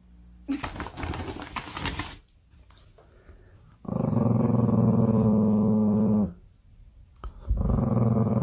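A dog growling in two long, drawn-out growls, the first lasting a couple of seconds, after a brief burst of rough noise near the start.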